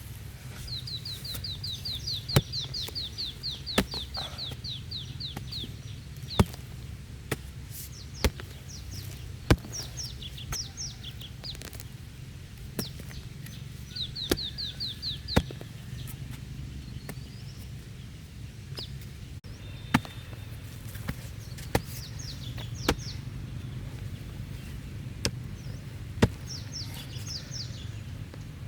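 Small birds singing in rapid high trills, several times, over a run of sharp, irregular knocks every one to five seconds and a steady low hum.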